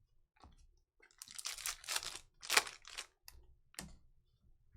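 Trading-card pack wrapper being torn open and crinkled: a run of rustling and tearing in the middle, then a sharp click near the end.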